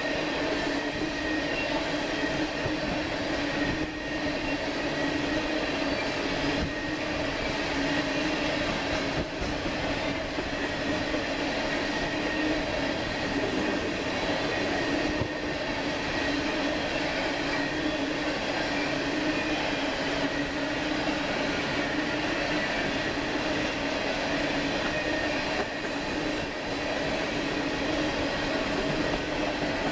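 Freight train cars rolling steadily past, a continuous rumble and rush of wheels on rail with a constant high ringing squeal from the wheels over it.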